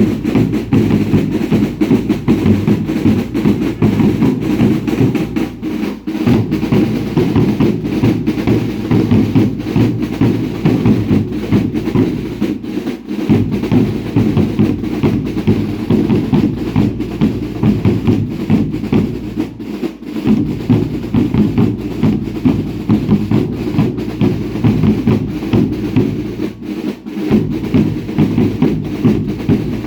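Bass drums and snare drums of a baile indio dance troupe beaten together in a fast, continuous rhythm. The drumming eases briefly about every seven seconds.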